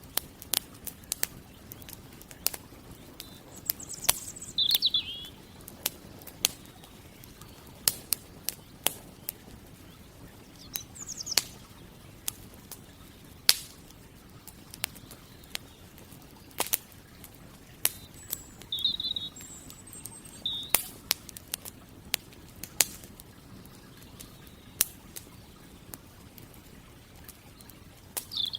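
Campfire crackling, with frequent irregular sharp pops and snaps. A bird chirps briefly a few times over the crackle.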